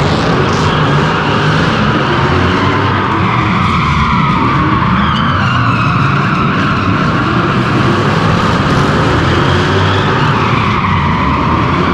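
Drift car with a straight-piped Toyota 3UZ V8 running hard at high revs while its tyres squeal and skid continuously. The engine's pitch moves up and down as the throttle is worked through the slide.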